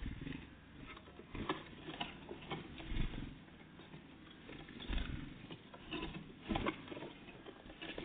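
Irregular taps, scratches and knocks of small birds such as great tits and blue tits landing, hopping and pecking at a bird feeder, with a few louder thumps.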